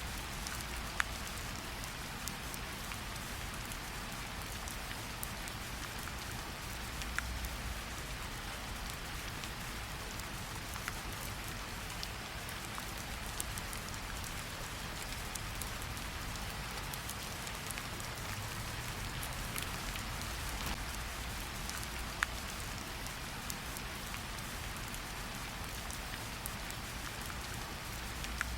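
Steady rain falling, with scattered individual drop ticks.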